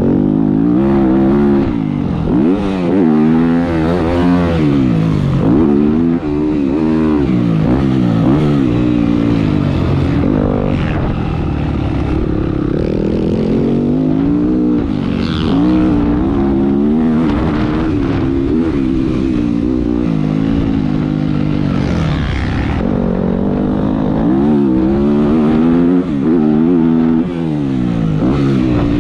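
Motocross dirt bike engine on track, revving up and backing off again and again, its pitch climbing and then dropping, sometimes suddenly, as the rider accelerates, shifts and rolls off.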